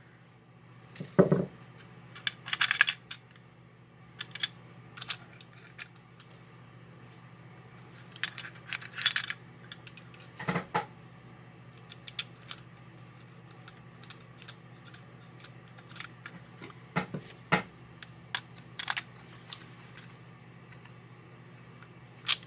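Scattered light clicks and small metallic clinks of a Marx 666 toy locomotive's parts being handled and fitted back together by hand, over a faint steady hum.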